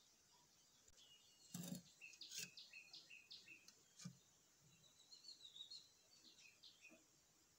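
Near silence with faint bird chirps, a run of short notes early on and another about five seconds in, and a few soft knocks in between.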